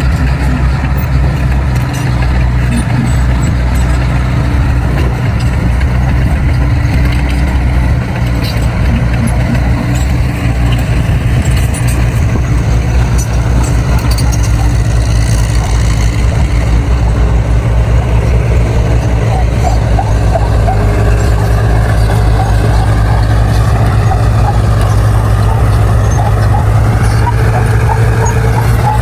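Crawler bulldozer's diesel engine running steadily at a constant pitch while working.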